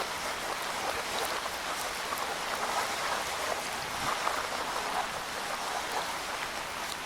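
Steady rainfall in a wood, a dense even patter of raindrops with scattered individual drips.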